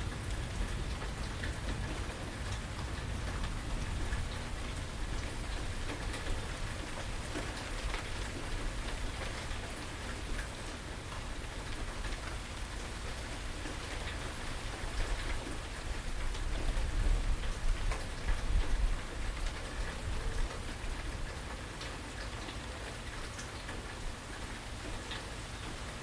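Steady rain falling, with individual drops striking close by. A low rumble swells for a few seconds in the middle and is the loudest part.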